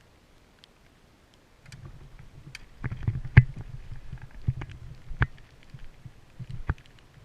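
A low rumble starting about a second and a half in, with five or six sharp, irregularly spaced knocks, the loudest about halfway through.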